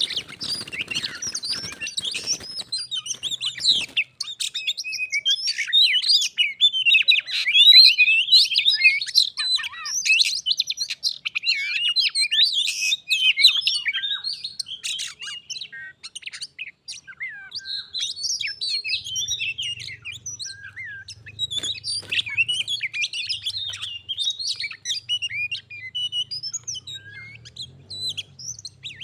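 Oriental magpie-robin song: a dense, varied run of quick chirps and whistles with short pauses, loudest in the middle. A faint low hum comes in about two-thirds through.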